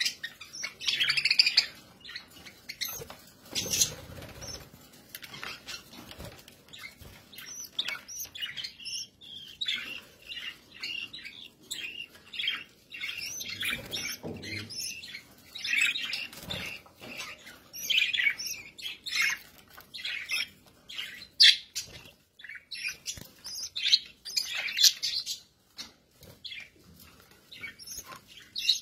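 Budgerigars chirping and chattering in many short, irregular calls.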